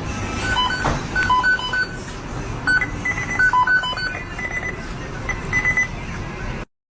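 A string of short electronic beeps at a few different pitches, irregularly spaced, over a low background rumble; it cuts off suddenly near the end.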